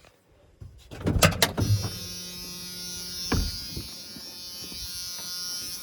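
A few sharp knocks, then a steady electric buzz with a high hiss.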